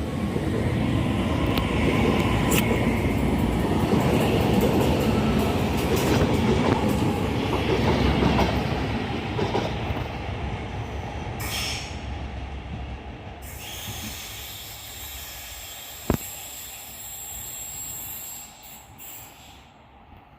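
Two coupled Class 331 electric multiple units departing, with wheels rumbling and clicking over the rails. The sound is loud at first and fades steadily as the train draws away, with one sharp click near the end.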